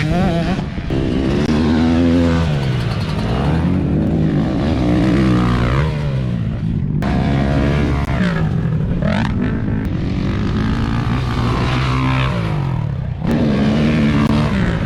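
Dirt bike engines revving hard, their pitch climbing and dropping again and again as the throttle opens and closes, with more than one bike heard at once.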